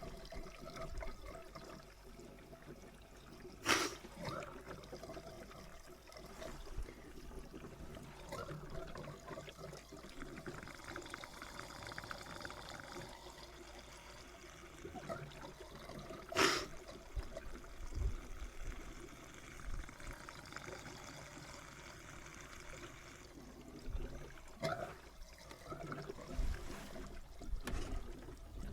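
Fuel trickling and pouring from a can through a stiff, cold hose, with two sharp knocks about 4 and 16 seconds in.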